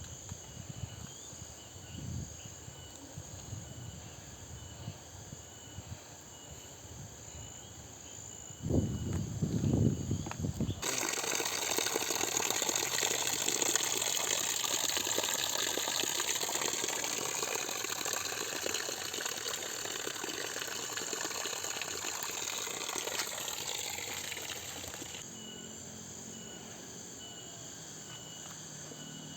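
Footsteps on a forest trail with a steady insect chirp, then an abrupt switch to the loud, steady rush of a waterfall for about fourteen seconds, before the insect chirping returns.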